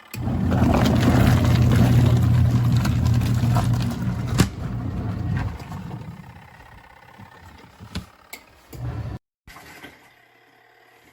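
Portable twin-tub washing machine's motor humming with water churning. It starts abruptly and dies away after about five seconds.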